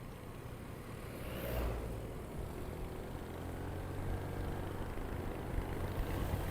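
Motorcycle engine running steadily under way, with road and wind noise and a brief whoosh about a second and a half in.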